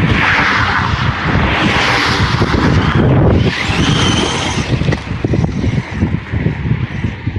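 Redcat Shredder 6S brushless RC monster truck driving through mud and rubble, its tyres crackling and churning, with a brief high motor whine about halfway through.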